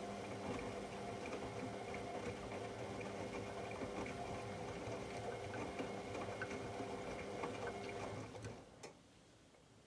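AEG Lavamat L74810 washing machine running with water sloshing and a steady motor or valve hum, which stops near the end with a soft click.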